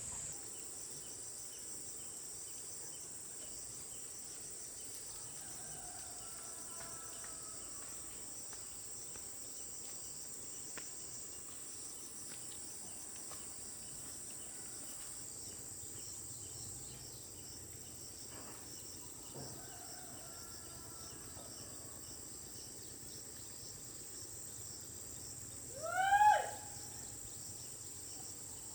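Insects keep up a steady high-pitched drone and rapid chirping, with faint bird calls now and then. About 26 seconds in, a single short, loud bird call rises and then falls.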